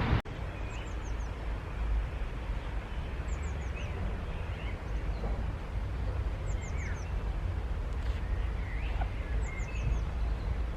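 Outdoor birdsong over a steady low rumble. One bird repeats a short phrase of three or four quick, high, falling notes about every three seconds, with a few other scattered chirps.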